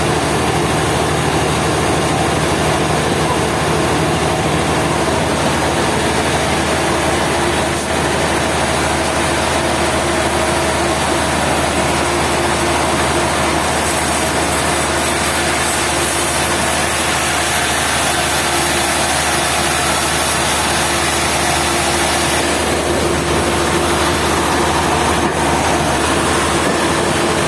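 A motor-driven machine running steadily and without a break, with a steady hum of several tones over a dense noise.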